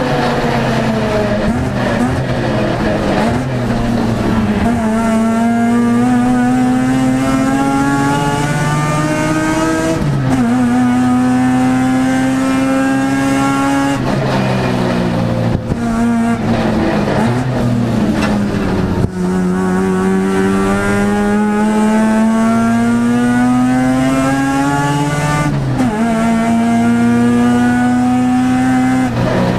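Mazda RX7 race car's rotary engine under hard acceleration, heard from inside the stripped cabin. Its note climbs steadily through each gear and drops sharply at each of several gear changes, with a choppier, lower stretch in the middle.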